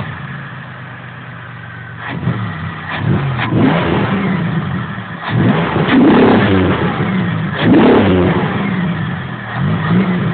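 2002 Pontiac Grand Prix GT's 3.8-litre V6, just started, idling for about two seconds and then revved repeatedly, the engine note rising and falling with each blip, the biggest revs a little past the middle and again later. Heard from the engine bay at the air intake.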